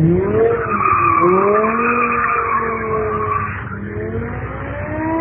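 Car drifting: the engine revs up and down while the tyres squeal, the squeal loudest from about one to three and a half seconds in, and the revs climb again near the end.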